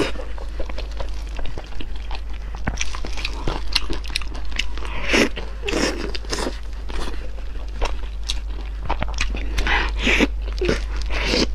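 Close-up eating sounds of a person biting into and chewing soft red-braised pork belly: a steady run of short wet clicks and squelches from mouth and meat, with a few louder bites about halfway through and near the end.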